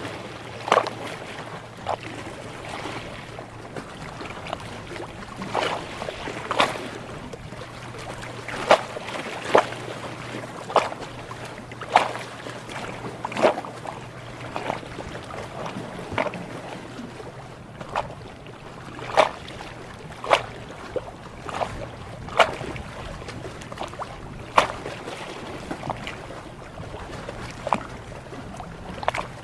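Sea water lapping and slapping, with sharp splashes at irregular intervals about once a second over a steady wash. A faint low hum runs beneath.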